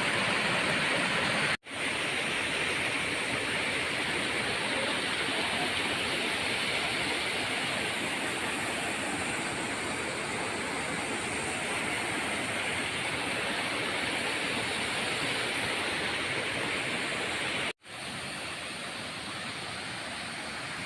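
Steady rushing of water in heavy rain, cutting out for an instant twice.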